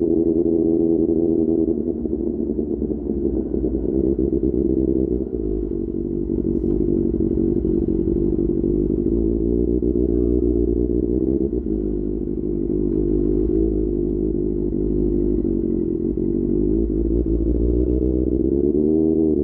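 QJ Motor SRK600's inline-four engine running through an SC-Project exhaust while the bike is ridden. The engine note holds mostly steady, easing and picking up a few times, and rises clearly near the end as the throttle opens.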